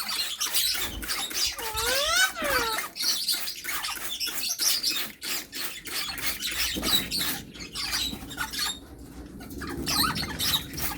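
Pet parrots chirping with short calls and clicks, with one call that rises and falls in pitch about two seconds in.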